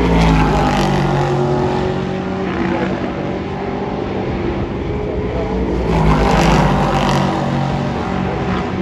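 Race cars passing at speed on a circuit, their engine note dropping in pitch as each goes by: one pass just after the start and another about six seconds in, with engine sound throughout between them.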